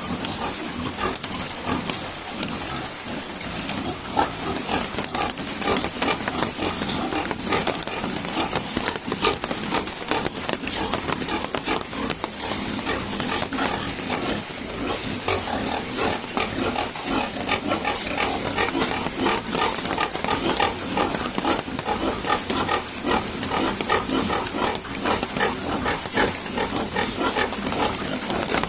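Pigs in a pen grunting and calling continuously, many short calls overlapping, over a steady hiss of heavy rain.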